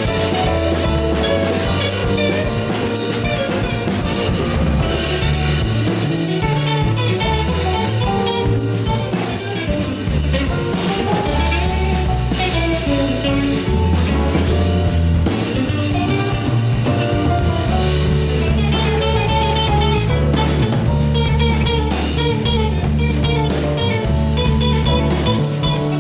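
Live jazz band playing: electric guitar over a busy bass line and drum kit, with keys filling in, continuous and at full volume.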